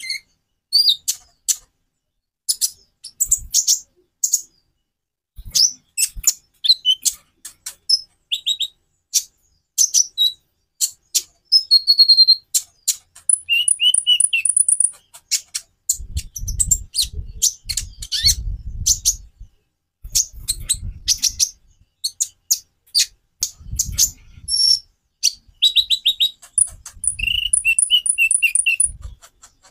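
A konin (kolibri ninja) sunbird singing a rapid, varied string of sharp high chirps, broken twice by short buzzy trills. For several seconds past the middle, low dull thumping sounds run under the song.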